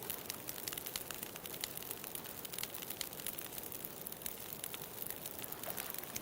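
Wood bonfire crackling, with many quick irregular snaps and pops over a steady rushing background.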